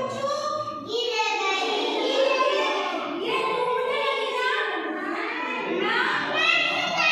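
Young children's voices in a sing-song chant, rising and falling with little pause.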